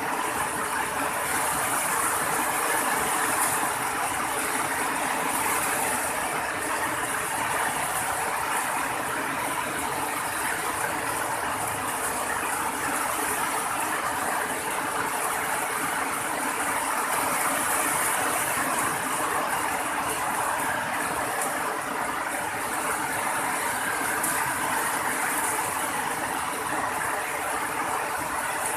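Steady rain falling: an even hiss with no let-up.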